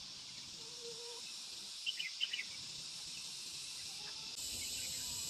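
Outdoor ambience: a steady high buzz of insects, with a few short bird chirps about two seconds in.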